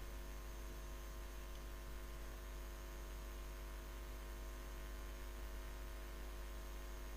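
Steady low electrical hum with a faint even hiss; no distinct cooking sound stands out.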